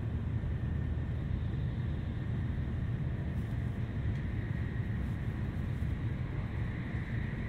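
Steady running noise of a Tokaido Shinkansen train heard from a seat inside the passenger car: a low rumble of wheels on rail with a faint steady whine above it.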